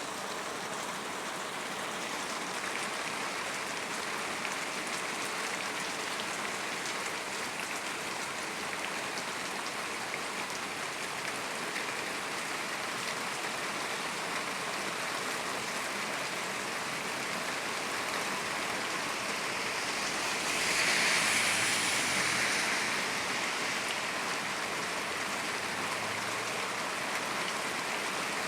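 Heavy rain falling steadily in an even hiss, swelling louder for a couple of seconds about three-quarters of the way through.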